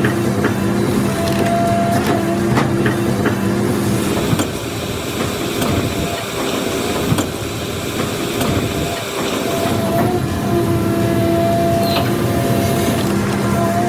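A machine's engine running at a steady pitch while wood cracks and splinters under it, with scattered sharp snaps. For several seconds in the middle the engine note drops away, leaving mostly crunching and crackling wood.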